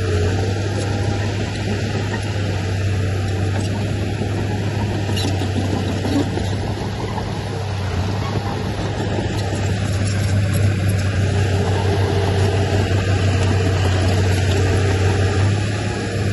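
Heavy diesel earthmoving machinery running steadily, a continuous low engine drone.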